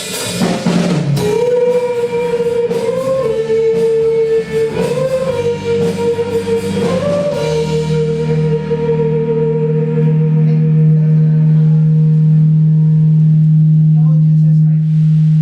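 Live band playing through amplifiers during a sound check: a few drum hits at the start, a long held note with small turns, then a loud steady low note held through the second half.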